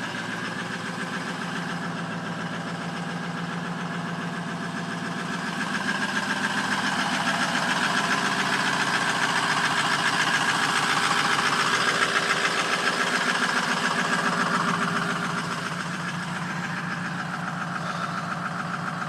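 Ford 6.0 Powerstroke turbo V8 diesel idling on stock exhaust after a cold start, a steady diesel clatter that grows louder from about six seconds in and eases back near the end.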